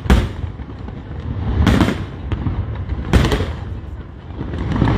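Aerial fireworks bursting: three loud bangs about a second and a half apart over a low rolling rumble, then a rapid run of crackles near the end.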